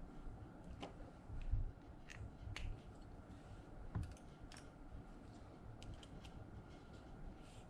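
Slime being worked by hand, giving off irregular small sticky clicks and pops, with a couple of soft low thumps.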